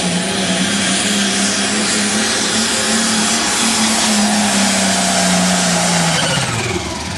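Turbocharged pulling-tractor engine at full throttle under load, holding a steady pitch. Near the end it drops sharply in pitch as the throttle comes off.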